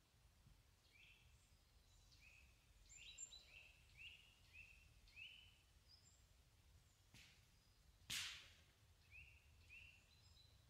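Faint birdsong: a small bird repeating short chirping notes again and again, with a sharp snap about eight seconds in, preceded by a fainter click a second earlier.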